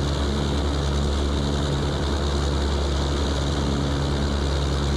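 The B-29 Superfortress's Wright R-3350 radial engines and propellers in a steady, even drone at high power during the climb just after takeoff.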